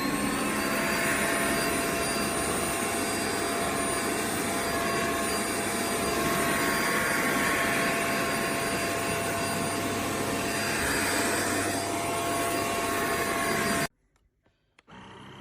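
Xiaomi Mijia dust-mite mattress vacuum cleaner running: a steady rush of suction with a high motor whine. It cuts off abruptly about 14 seconds in, and after a second of silence a quieter whirring starts.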